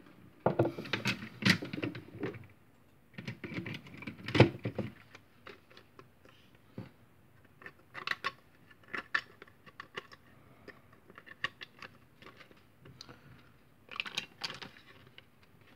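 Irregular clicks and knocks of hard plastic parts being handled and fitted together, a 3D-printed Nerf Hammershot cylinder being test-fitted into the blaster, in a few busy clusters with scattered single ticks between.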